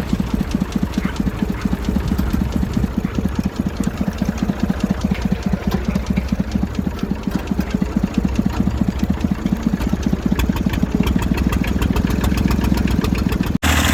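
Massey Ferguson 35's three-cylinder diesel engine running with a fast, even knocking beat, having fired up after a tow start. The sound drops out briefly near the end.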